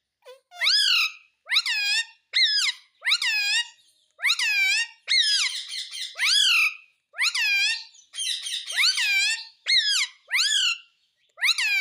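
Ringneck parrot giving a string of shrill calls, about a dozen, each one sweeping up and then down in pitch, roughly one a second.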